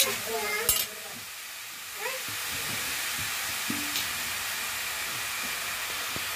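A metal spatula scrapes and stirs grated ash gourd in a metal kadai for about the first second. Then comes a steady sizzling hiss as the squeezed gourd dry-roasts in the pan, with a single clack about four seconds in.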